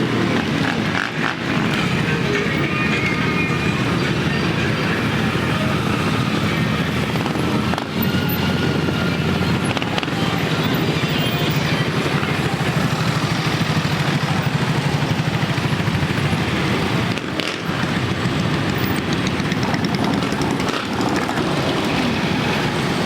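Motorcycle engines of a parade of bikes riding past, a continuous dense mix of engine noise.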